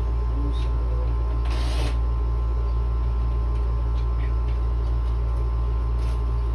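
Room air conditioner running with a steady low hum and a fan whir, with a brief rattle about a second and a half in.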